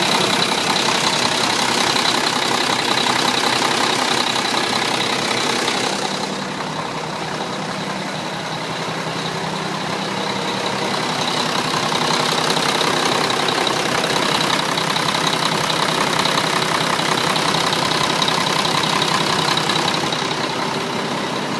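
Turbocharged diesel engine of a Mack vacuum truck idling steadily, with a steady high whine over it. It gets a little quieter about six seconds in and comes back up a few seconds later.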